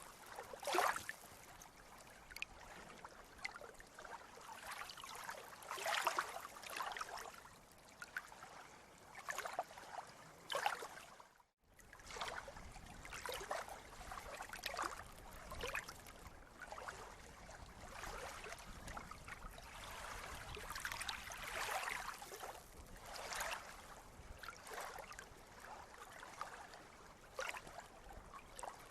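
Small sea waves lapping and splashing in an irregular pattern of splashes. The sound cuts out briefly about eleven seconds in and then resumes.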